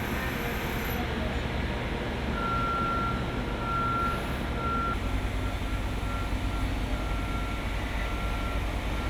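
A heavy construction machine's diesel engine running steadily, with its backup alarm beeping in a regular series that starts a couple of seconds in.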